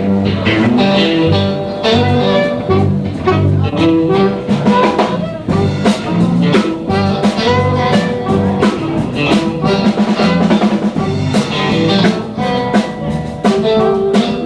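A blues band playing live: drum kit keeping a steady beat under a walking bass line and guitar.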